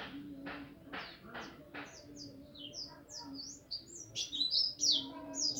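A white-eye (pleci) songbird twittering in rapid, high-pitched chirps that grow louder in the last second and a half. A steady low hum runs underneath.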